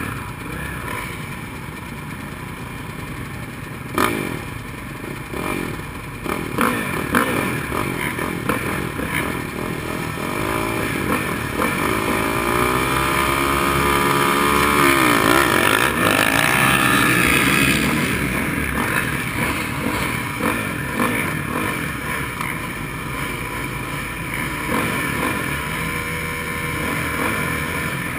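Motocross dirt bike engine running and revving: its pitch climbs over several seconds to a peak about midway, then drops back. A few sharp knocks sound in the first several seconds.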